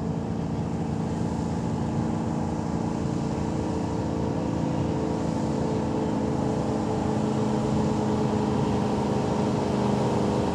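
Pulling truck's engine running hard under load as it drags a weight-transfer sled down the track, a steady drone at an even pitch that grows slightly louder toward the end.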